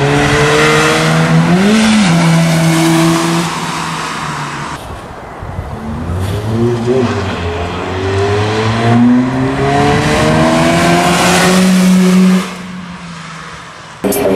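Car engine accelerating through the gears, its pitch climbing and then dropping at each change, before holding a steady drone. It cuts off abruptly near the end.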